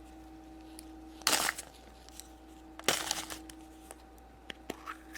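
A chocolate-surprise wrapper being opened by hand: two short bursts of crinkling and tearing, then a few light clicks near the end.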